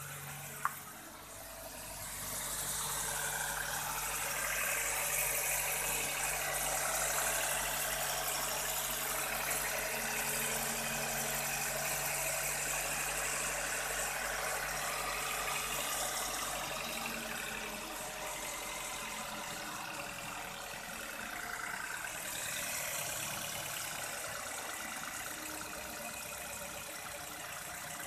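Suzuki XL7's 1.5-litre four-cylinder petrol engine idling steadily under an open bonnet, a smooth even hum under a steady hiss. A single sharp click about a second in.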